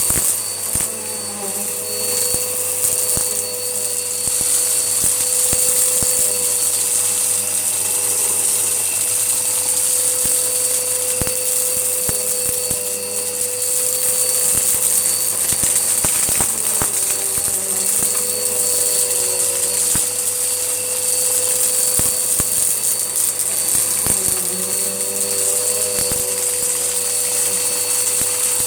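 Hoover Whirlwind upright vacuum cleaner running steadily, with a constant motor whine and rushing air, and scattered sharp clicks of grit, cat litter, being sucked up.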